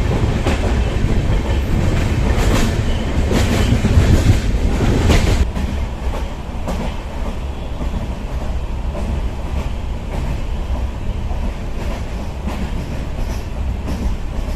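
Indian passenger train running on the rails: a steady rumble with the clickety-clack of the wheels over rail joints. It is louder for the first five seconds, then drops to a lower, steadier rumble.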